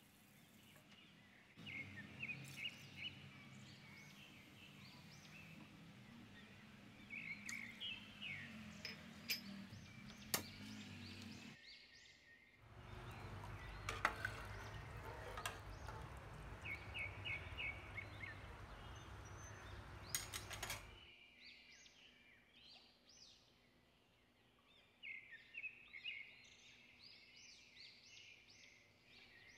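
Small birds chirping in short repeated bursts, over a steady hiss that stops abruptly about two-thirds of the way through. A few sharp clinks come from a metal ladle against the cooking pot.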